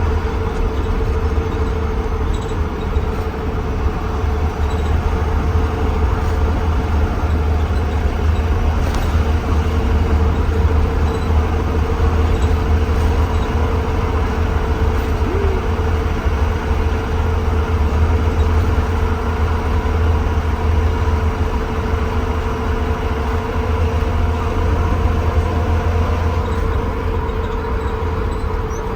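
2020 Blue Bird Vision school bus driving, heard from inside the cabin: a steady deep engine and road rumble with a constant whine over it.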